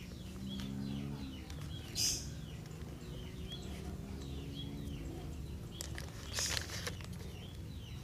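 A small bird repeating a short chirp about twice a second over a low steady hum. Two brief scraping rustles, about two seconds in and again between six and seven seconds, come from bonsai wire being wrapped by hand.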